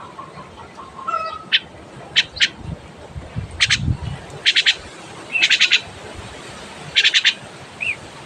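A bird giving short, harsh squawking calls, about eight quick bursts of rapid high notes at uneven intervals.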